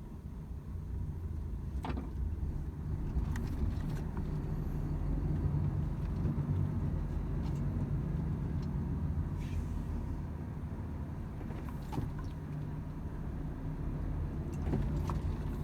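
Volvo FH 500 truck under way: a steady low engine drone with road noise, growing louder over the first few seconds, with a few faint clicks.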